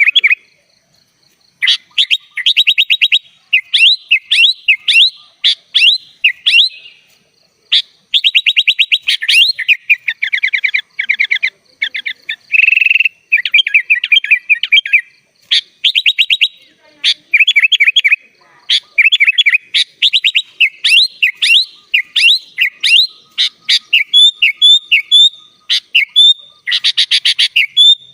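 Sooty-headed bulbul (kutilang) singing a long, varied, loud song: bursts of rapid trills, chattering runs and short whistled phrases with brief pauses between them, filled with mimicked phrases ('isian').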